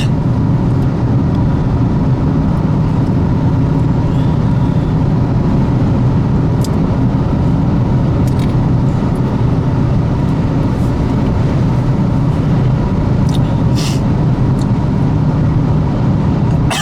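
Steady road and engine noise of a car driving at highway speed, heard from inside the cabin as an even low rumble, with a few faint short clicks here and there.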